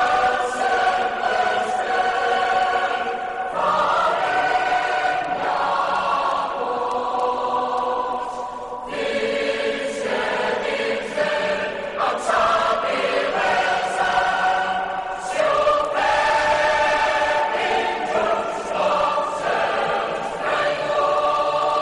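A choir singing slow, sustained chords, the voices shifting to a new chord every few seconds.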